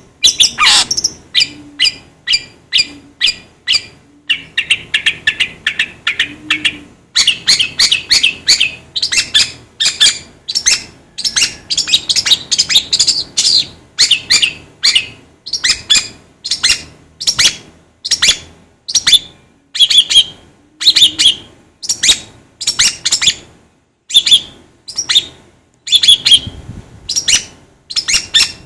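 Songbird calling rapidly: loud strings of short, sharp high-pitched chirps, several a second, broken by a few faster buzzy trills.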